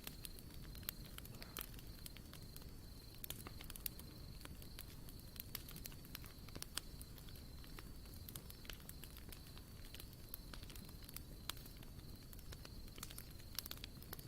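Wood campfire crackling with irregular sharp pops and ticks over a low steady rumble. A thin, steady high-pitched whine runs underneath.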